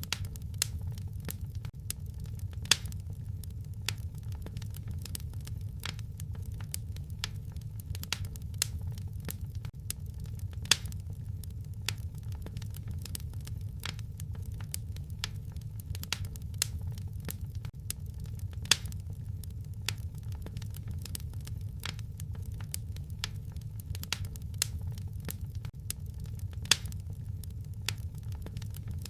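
Wood fire crackling, with many small irregular snaps over a steady low rumble, and a sharper pop about every eight seconds.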